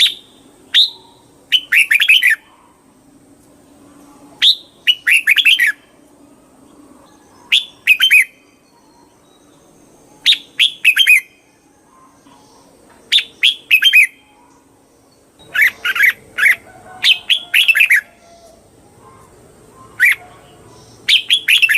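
Red-whiskered bulbul singing: short phrases of quick, bright chirping notes, repeated about every two to three seconds and coming closer together in the later part.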